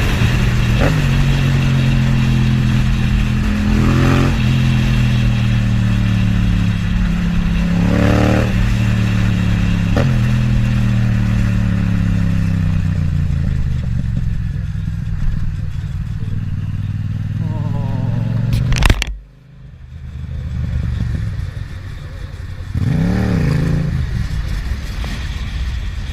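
Motorcycle engine running under way, its pitch drifting slowly lower. A sharp crack about nineteen seconds in, after which the engine sound drops away, and a short rev rising and falling a few seconds later.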